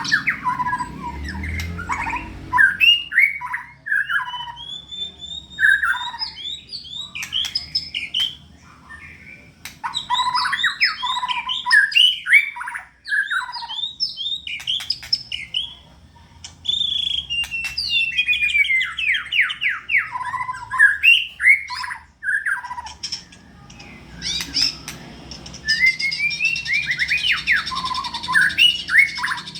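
Murai songbird singing in full voice ('gacor'), the form keepers look for in a contest bird: a continuous run of varied whistled phrases broken by short pauses. About seventeen seconds in comes a long series of quick falling notes, and near the end a fast, dense high rattle.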